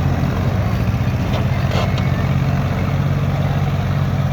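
Tractor engine running steadily, a low, even engine note with no change in speed.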